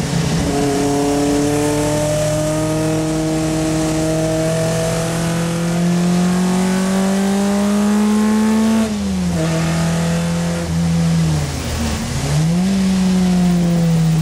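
Triumph Spitfire Mk3's four-cylinder engine heard from inside the cabin under racing load. Its pitch climbs slowly for about nine seconds, then falls away quickly, dips further and climbs again near the end, over a steady hiss of spray from the wet track.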